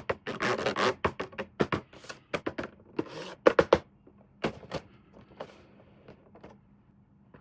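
Hands handling a toy box and its packaging: a run of sharp clicks and taps with brief rustling scrapes, busiest in the first few seconds and thinning out toward the end.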